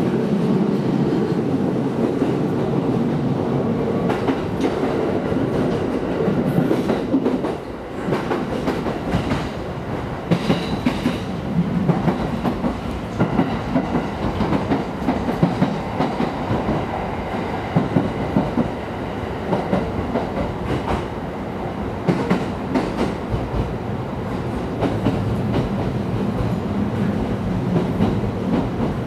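A JR East E231 series electric commuter train running, heard from inside the passenger car: a steady rumble of wheels and motors, with the wheels clicking over rail joints at regular intervals. The running noise dips briefly about eight seconds in.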